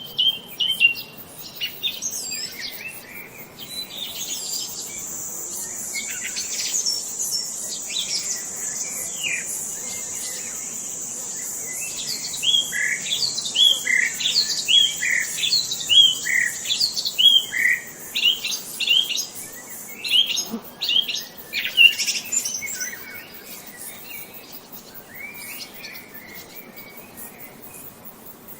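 Songbirds chirping: a run of quick, repeated falling notes, densest in the middle, thinning out near the end. A steady high-pitched buzz runs under the birdsong for most of the first two-thirds.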